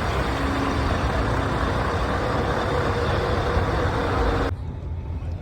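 Scania truck engine running loud and steady, with a deep rumble under a wide hiss. About four and a half seconds in the sound drops off abruptly, leaving a quieter low rumble.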